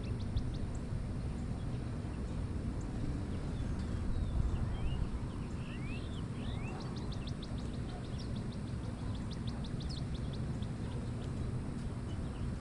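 Small birds calling over a steady low rumble: a rapid dry trill of about eight clicks a second near the start and again from about seven to ten seconds in, with several short rising chirps in between.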